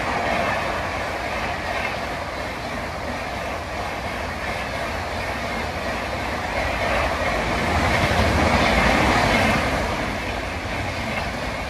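Superfast express passenger train hauled by a WAP4 electric locomotive running past at high speed: a continuous rush and rumble of wheels on rail. It grows louder from about seven and a half seconds in and eases off slightly near the end.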